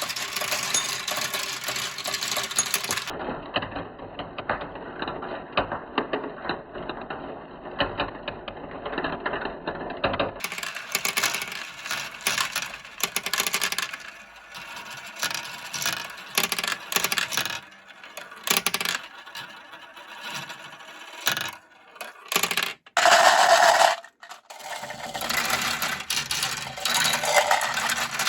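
Many marbles rolling and clattering down a Kumikumi Slope plastic marble run: a dense, continuous run of small clicks and rattles, with a louder burst of clatter a little before the end.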